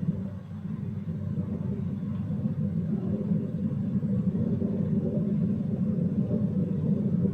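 Hoover DYNS 6105 DZ washing machine running in the early, pre-spin part of a spin-only program: a steady low rumble that steps up in level at the start and slowly grows louder.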